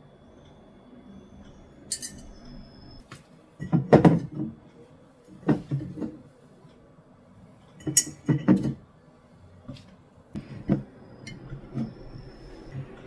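Dishes and glassware being handled in a kitchen: scattered knocks and clinks, with heavier knocks about four and eight seconds in and short ringing clinks about two seconds in and near the end.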